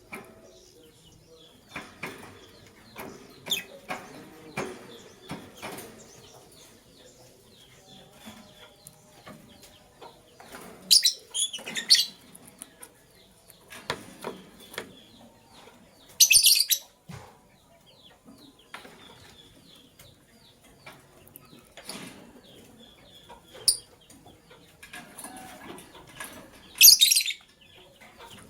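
Caged lovebirds: three loud, shrill bursts of calling, about five and ten seconds apart, over scattered taps, scuffles and wing flutters as the birds move about.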